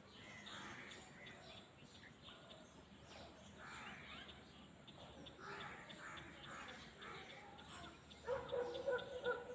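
Birds calling and chirping in open countryside, with short scattered calls and a louder, harsh repeated call near the end.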